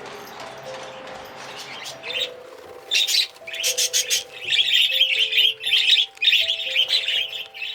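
Budgies chattering, a fast run of loud chirps and squawks starting about two seconds in, over a steady melodic background music track.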